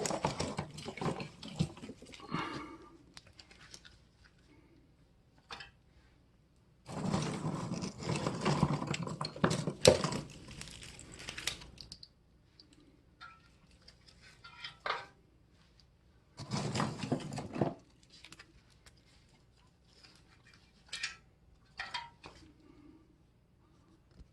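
Wood and metal being handled at a homemade gas-cylinder wood stove: three bursts of rustling and snapping of small twigs, with scattered metal clinks and knocks between them.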